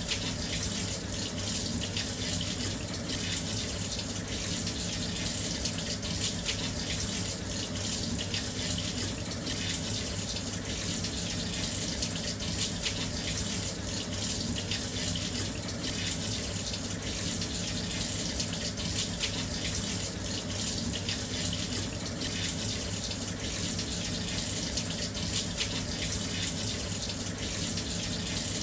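Washing machine filling with water: a steady rush of water pouring into the drum, with a faint low hum underneath.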